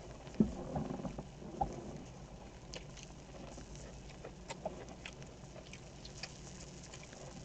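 Close-miked eating sounds: chewing with small wet mouth clicks. Two louder soft knocks in the first two seconds.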